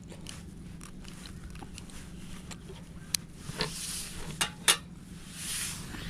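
Camp food and cookware being handled: a few sharp clicks and knocks about halfway through, with brief scraping, rustling noise.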